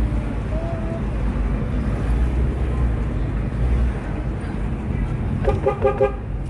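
Steady low engine and road rumble heard from inside a moving car, with a car horn giving a few short toots near the end.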